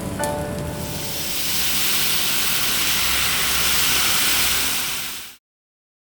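A few last music notes, then a steady, high hissing noise that builds in over about a second and cuts off abruptly about five seconds in.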